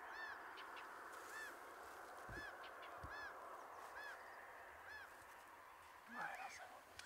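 Faint bird calls: short rising-and-falling notes repeated about once a second over a steady hiss, with one louder, rougher call about six seconds in.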